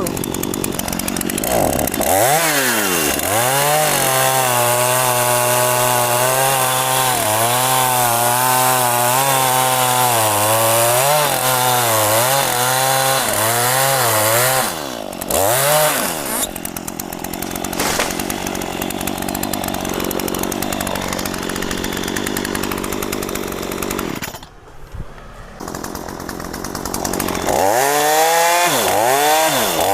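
Two-stroke chainsaw cutting mahogany: it revs up about two seconds in and runs at full throttle with its pitch wavering, drops to a lower, quieter running speed at about fifteen seconds, falls nearly quiet briefly near twenty-five seconds, and revs up again near the end.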